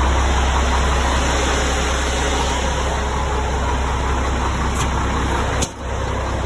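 Diesel engine of a Mack MRU concrete pump truck idling steadily, with a click and a momentary dip in the sound about five and a half seconds in.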